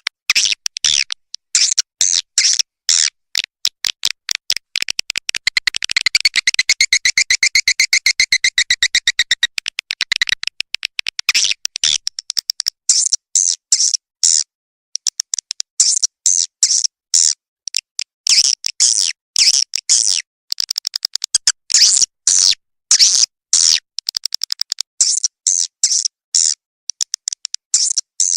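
Swiftlet lure recording, the external call for drawing swiftlets to a bird house: quick runs of dry, high-pitched chirps and clicks. About five seconds in, a dense buzzing rattle takes over for about five seconds before the separate chirps return.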